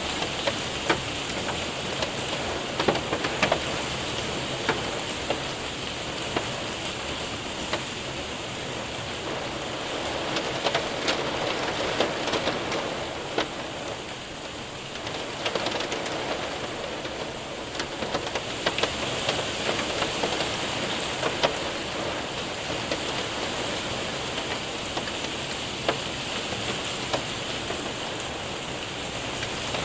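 Rain and hail hitting a window and roof: a steady hiss of rain with many scattered sharp ticks of hailstones striking, easing slightly around the middle.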